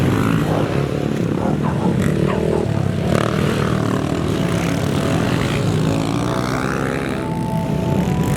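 Pit bike engines running and revving on a dirt track, a steady motor drone with rising and falling pitch.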